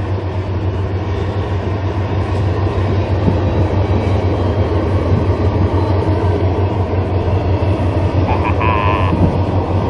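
A train rolling past: a loud, steady rumble with a deep hum underneath. A brief higher-pitched tone sounds near the end.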